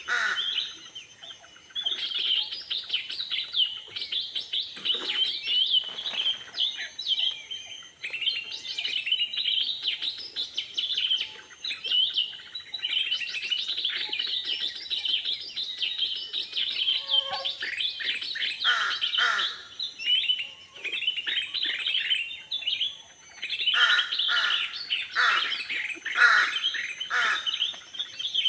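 Wild birds chirping and calling continuously in quick, overlapping notes. Fuller, lower descending calls come in bursts, most strongly in the last few seconds.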